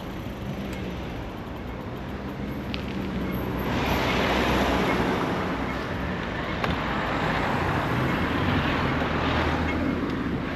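Road traffic: a vehicle engine hums low, then tyre and road noise grows louder about four seconds in and stays up.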